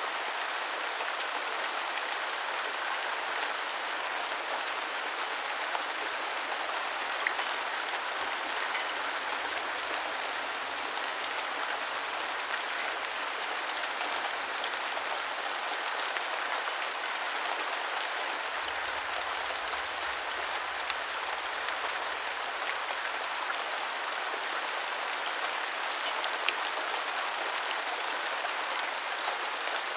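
Steady rain pattering on a surface, a dense even hiss with scattered individual drop ticks. A faint low rumble sits underneath for a few seconds just past the middle.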